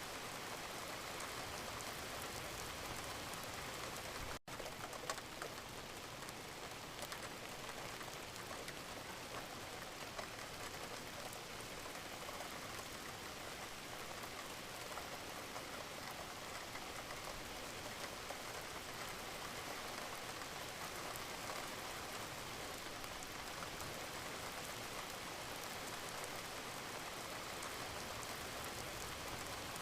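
Steady rain falling, a dense even patter of drops, broken by a split-second dropout about four seconds in.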